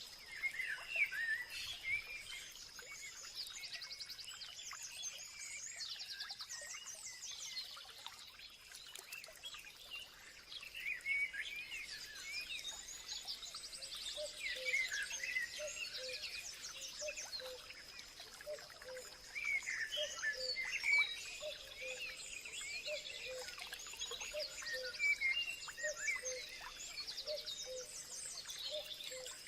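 A chorus of several songbirds chirping and trilling, with a steady high tone running underneath and short low notes repeating through the second half.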